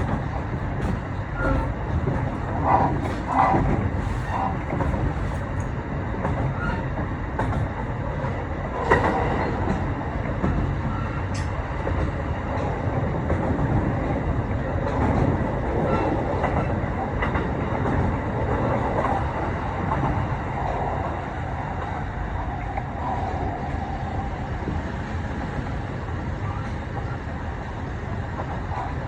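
Kintetsu 8A series electric commuter train running between stations: steady wheel and traction-motor noise from its Mitsubishi hybrid SiC VVVF drive, with scattered clicks over rail joints. A held tone rises out of the noise about two-thirds of the way through.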